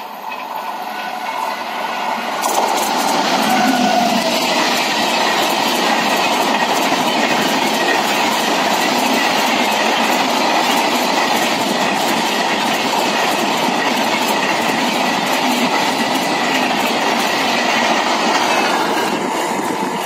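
Express passenger train of LHB coaches approaching and passing close at speed: a rising rush of wheel-on-rail noise that becomes a loud, steady rumble, with a rapid clickety-clack of wheels over the rail joints, easing slightly near the end.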